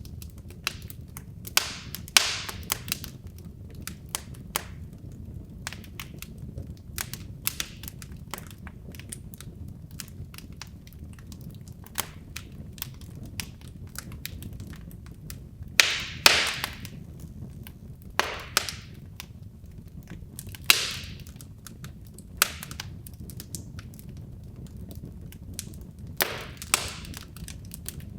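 Wood logs burning in a fireplace: sharp, irregular crackles and pops over a steady low rumble of the flames, with a few louder pops about 2, 16, 18 and 21 seconds in.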